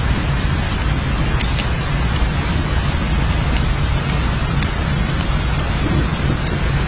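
Steady heavy rain with a constant low rumble underneath and scattered sharp drop ticks.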